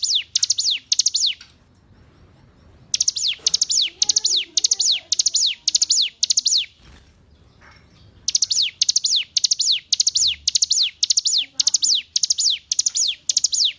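Ciblek gunung (hill prinia) singing: bouts of loud, high notes repeated about three times a second, each note sweeping down in pitch, with two short pauses between bouts. Fainter, lower warbling from another bird sounds under the song.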